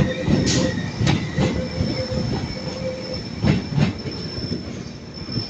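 Freight train hauled by a DRS Class 88 locomotive running through, its wheels squealing in steady high tones on the curved track, with several sharp clicks as wheels cross rail joints over a low rumble.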